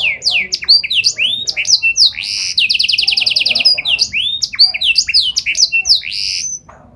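Domestic canary singing loudly, a fast string of sweeping chirps and whistles with a rapid rolling trill in the middle; the song stops shortly before the end.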